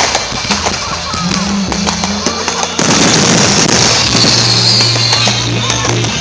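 Fireworks crackling and popping, with many sharp reports throughout and a louder, denser burst of crackle a little under halfway through. Music and crowd voices can be heard underneath.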